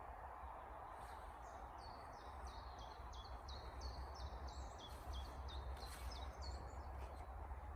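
A small songbird calling a rapid series of short, repeated high chirps, about three a second, starting about a second in and stopping near the end. Under it runs a steady outdoor hiss with a low rumble.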